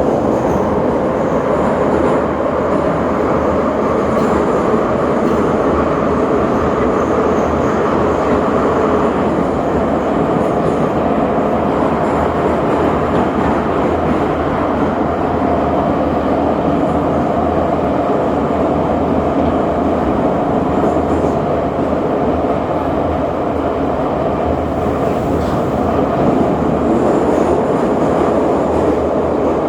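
Passenger train running steadily, heard on board: an even, continuous running noise with no letup.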